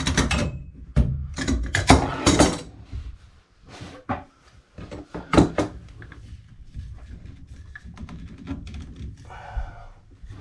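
A series of sharp knocks and clanks from tools working on the filter's pipe union fittings while the union nuts are tightened, loudest in the first few seconds, with one more sharp knock about halfway through and light clicks after.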